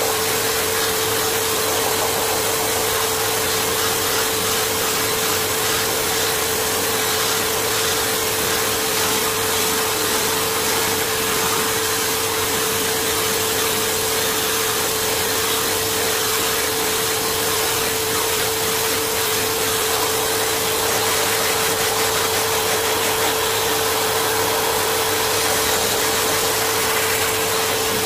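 An electric motor-driven fan running steadily, with a constant hum over an even airy rush.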